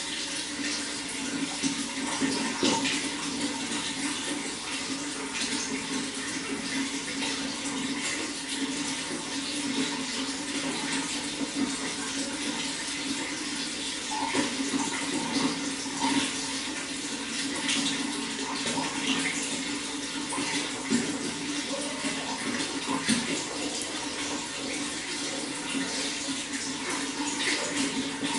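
Running water flowing steadily, with a constant rush and small splashes.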